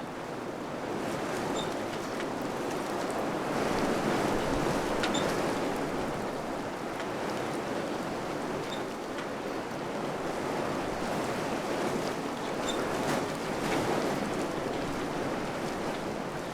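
Wind blowing in gusts: a steady rushing that swells and eases, with a few faint short high pips here and there.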